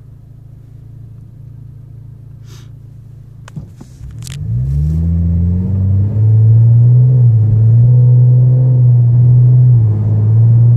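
2013 Chevrolet Camaro V6 with aftermarket exhaust, idling low at first, then a few clicks, and about four seconds in the engine revs up as the car pulls away under hard acceleration. The exhaust grows loud and deep, with two short dips in pitch along the way.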